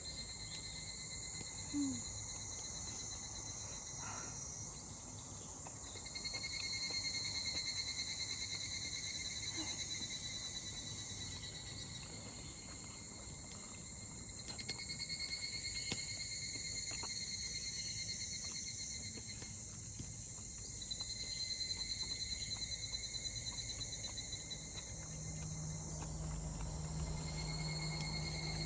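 Insects chirring, with a high-pitched, pulsing drone that swells and fades in phrases several seconds long. A low hum joins near the end.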